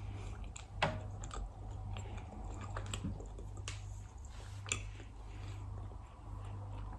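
A person chewing soft chocolate fudge close to the microphone: a scatter of small mouth clicks over a steady low hum.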